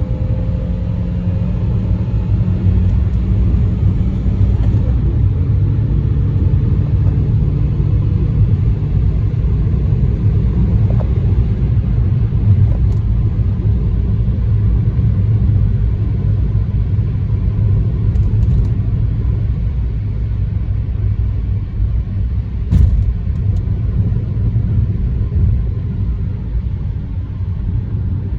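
Dacia Sandero 1.4 MPI four-cylinder engine running on LPG under way, its note climbing slightly at first, then a steady low rumble of engine and road noise at speed. A single sharp knock about 23 seconds in.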